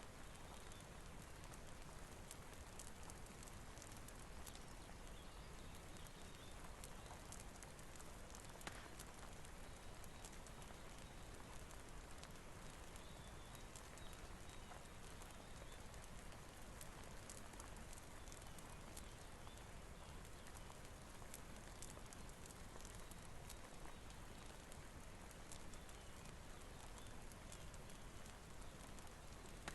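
Soft, steady rain hiss with a fireplace crackling, dotted with many small sharp clicks.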